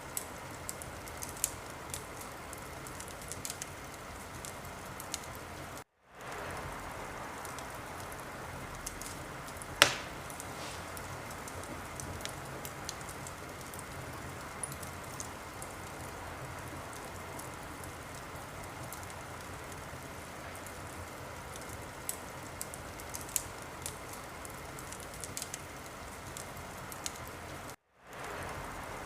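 Wood fire crackling in a fireplace: a steady hiss with scattered small pops and one loud pop about ten seconds in. The sound cuts out completely for a moment twice.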